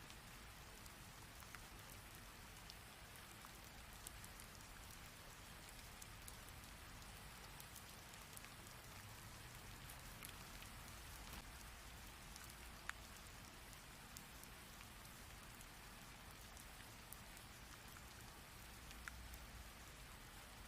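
Rain falling steadily: a quiet, even hiss with scattered sharp ticks of single drops, one louder tick about 13 seconds in.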